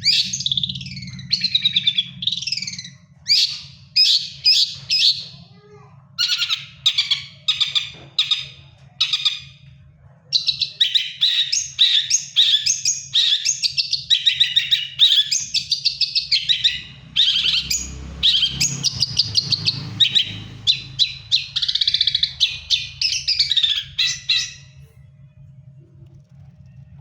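Long-tailed shrike (cendet) in moult singing a fast, varied chattering song in quick bursts, over a steady low hum. The song stops about two and a half seconds before the end.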